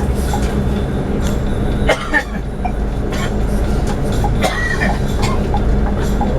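Interior of a Scania K360iB coach on the move: a steady low rumble of engine and road, with small rattles and clicks from the cabin. A brief, sharper sound breaks in about two seconds in.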